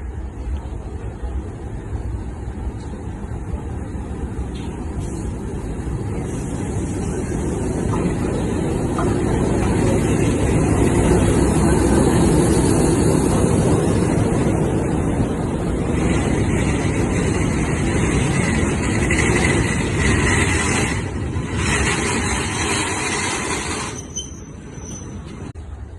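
Train hauled by Class M4 No. 746 diesel locomotive running past: a rumble swells to its loudest about halfway through, a hiss joins in over the latter part, and both drop off sharply near the end.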